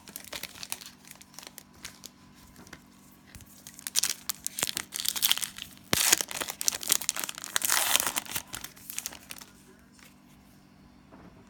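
Cellophane wrapper of a Panini Prizm cello pack crinkling as it is torn open and crumpled, heaviest from about four to nine seconds in with a sharp click near the middle, then quieting down.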